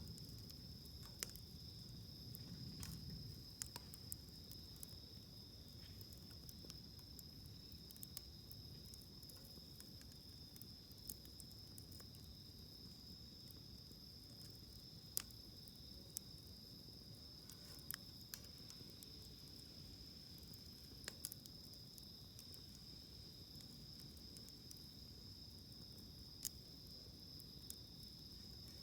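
Wood burning in a campfire, crackling with scattered sharp pops every second or two. Under it runs a steady, high-pitched insect trill, like crickets.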